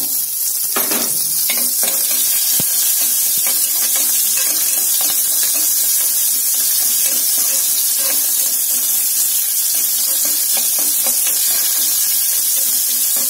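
Green chillies, ginger and curry leaves sizzling in hot ghee in an aluminium pressure cooker, a steady high hiss of frying with light scrapes of a slotted spoon stirring against the pan.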